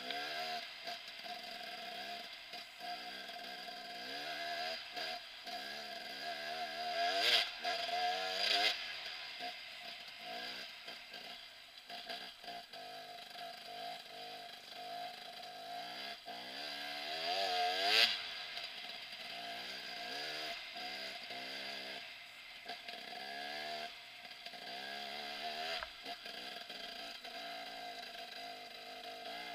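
KTM 300 EXC two-stroke enduro motorcycle engine being ridden off-road, revving up and down continually with the throttle. The loudest bursts of throttle come about seven to nine seconds in and again around eighteen seconds in.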